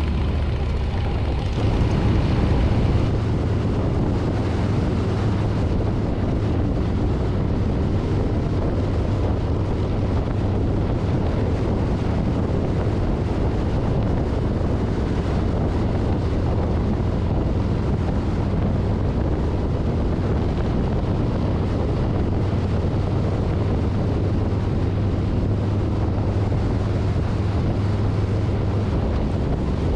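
Harley-Davidson Street Bob V-twin engine running under way, with wind buffeting the handlebar-mounted microphone. The engine note steps up about a second and a half in and drops back lower near the end.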